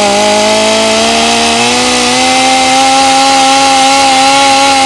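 Chainsaw sound effect: the saw's engine runs at a steady high rev, its pitch edging up slightly about two seconds in.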